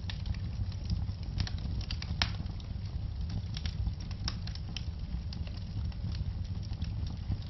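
Wood fire crackling: irregular sharp pops and snaps over a steady low rumble of the burning fire, with the loudest pop about two seconds in.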